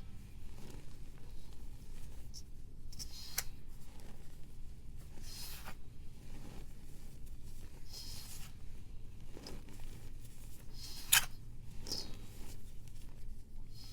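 Blocks of pressed powder being shaved and crumbled: short, dry scraping strokes every couple of seconds, with one sharp snap about eleven seconds in.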